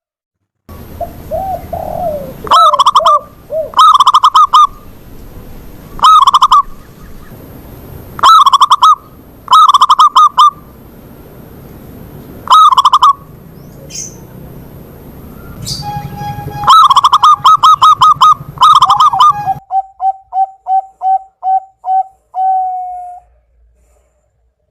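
Zebra doves cooing: a series of loud coo phrases, each about a second long, repeated every second or two. Near the end comes a quicker run of short clipped coo notes that finishes on one longer note.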